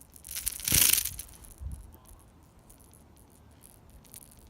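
A small, just-caught bass thrashing and shaking the lure, a short rattling burst about a second in, then faint light clicks as it is handled.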